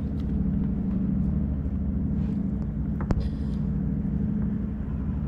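Steady low motor hum with evenly spaced low tones, and a single sharp click about three seconds in.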